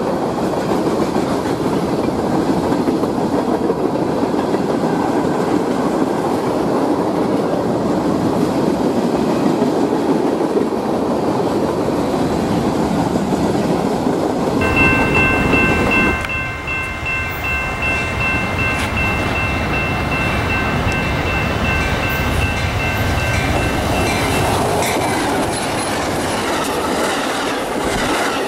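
Freight train of tank cars and covered hoppers rolling past with a steady rumble and clickety-clack of wheels on rail joints. About halfway through, a train horn sounds one long chord blast lasting about ten seconds. Near the end a double-deck Amtrak Superliner passenger train is passing close by.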